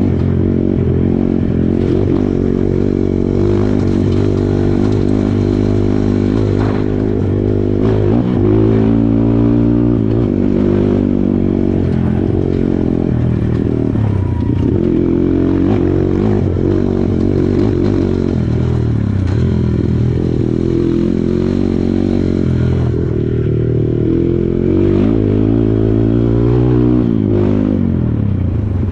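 Kawasaki KLX140 dirt bike's single-cylinder four-stroke engine working hard off-road, its revs climbing and dropping repeatedly, with sharp rises about a third of the way in and again near the end.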